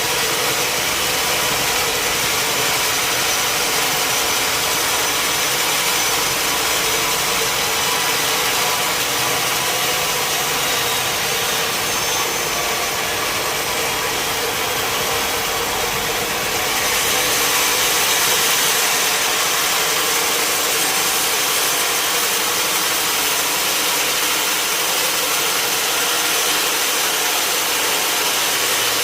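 Sawmill machinery running steadily: a motor with a constant hiss, getting a little louder about two thirds of the way through.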